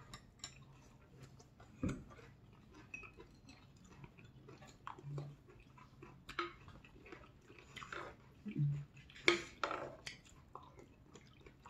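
Close-up chewing and wet mouth sounds of people eating a hot pot of napa cabbage, beef and oysters: soft, scattered smacks and clicks, a few louder ones about nine seconds in. A metal ladle clinks now and then against the pot.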